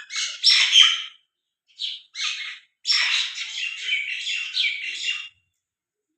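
Several small birds chirping in quick, overlapping high-pitched bursts. They come in three bouts with short gaps, the longest a busy chatter of about two and a half seconds.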